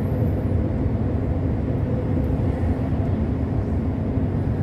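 Steady engine drone and road rumble heard inside a long-haul truck's cab while it drives on at speed.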